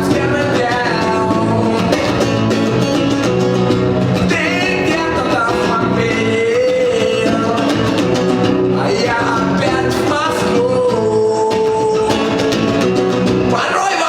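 A live song sung over acoustic guitar, with several long held sung notes.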